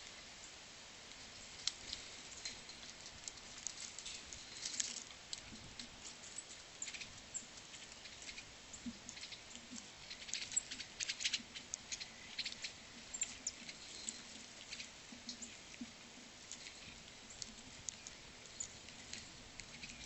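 Small birds giving quick, irregular chips and sharp ticks, denser in the middle, over a faint steady low hum.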